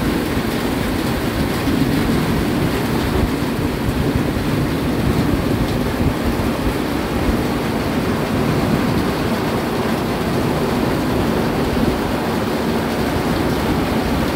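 Heavy rain pouring down steadily, with wind rumbling on the microphone.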